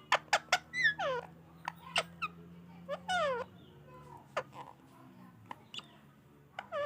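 Ringneck parakeet calling: a run of short clicks and chirps, with two longer squawks, about a second in and about three seconds in, that dip down and swing back up in pitch.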